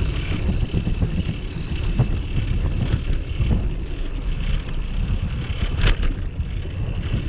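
Wind rumbling on the microphone and the vibration of a bicycle rolling along a path, with a sharp click about six seconds in.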